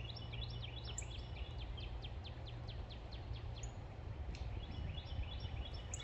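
Songbirds singing in a grove: one bird repeats a quick series of short high notes, about five a second, stops briefly, then starts another series near the end. A low steady rumble runs underneath.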